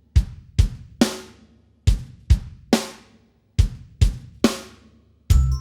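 Drum kit playing a beat in the backing music: three groups of three sharp hits, each third hit ringing out longest. Near the end the song's backing with bass and chiming tones comes in.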